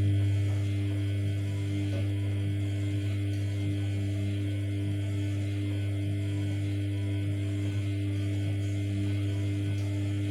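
Samsung P1271 front-loading washing machine running with a steady, even low hum that starts and stops abruptly.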